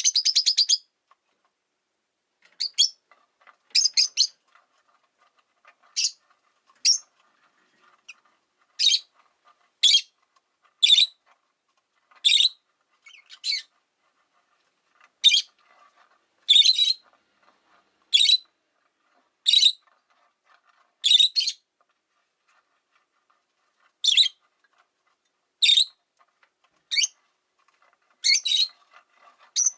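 Rosy-faced lovebird calling: sharp, high chirps repeated about once a second, with a few pauses of a couple of seconds, and a rapid buzzy trill at the very start.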